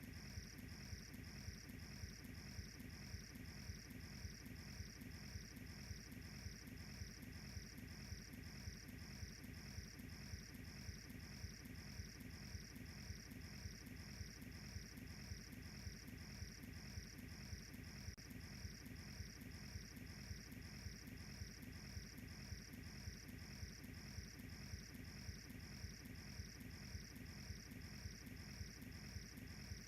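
Cricket chirping steadily and faintly, a high pulsing trill that repeats about twice a second, over a low steady rumble.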